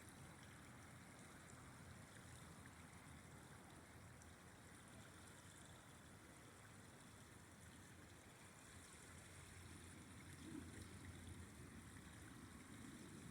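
Faint, steady rush of a flowing river. A low rumble builds in the second half.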